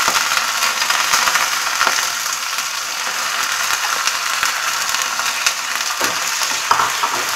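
Chicken liver sizzling and crackling in hot sesame oil in an iron kadai, with a spatula stirring it near the end.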